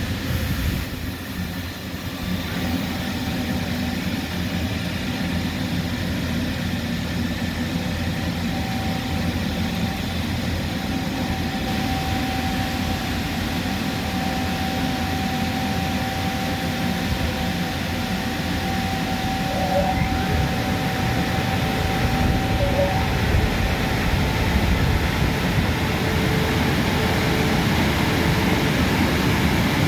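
Christ Genius Vitesse automatic car wash running, a steady mechanical rush that grows slightly louder, with a thin steady whine through much of it.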